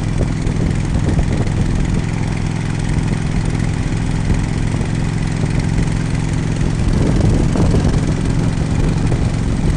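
Harley-Davidson Road King's V-twin engine running steadily, with a constant rush of noise over it.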